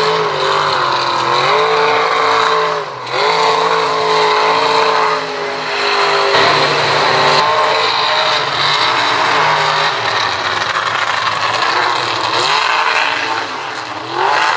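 Mega mud truck engine revving hard through a mud pit. The pitch sags and climbs again several times, with a brief let-off about three seconds in and another near the end.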